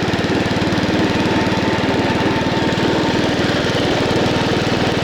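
Wisconsin S8D single-cylinder air-cooled engine on a garden tractor running steadily, with a rapid, even chuff of firing pulses.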